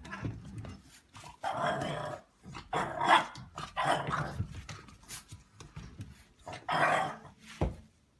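A dog vocalising in several short bursts, a few seconds apart.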